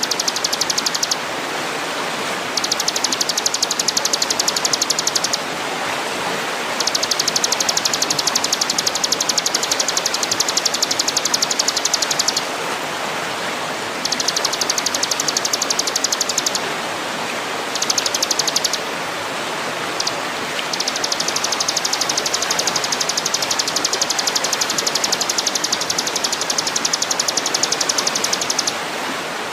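Bird-training masteran recording: bursts of a high, very rapid buzzing trill, about six of them, from a second to several seconds long with short gaps between, over a steady rushing hiss like flowing water.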